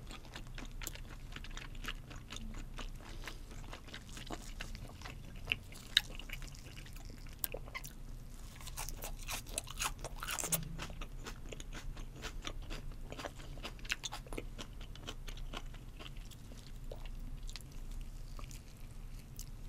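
Close-miked chewing of a mouthful of raw fish sashimi: a dense run of small mouth clicks and smacks, with a few sharper clicks about six seconds in and again near ten seconds.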